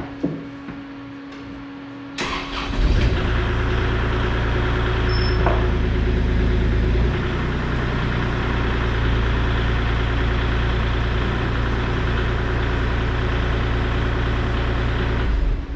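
Stick welding an excavator bucket's teeth to their shanks: the arc strikes about two seconds in and crackles steadily over a deep engine hum, and stops shortly before the end.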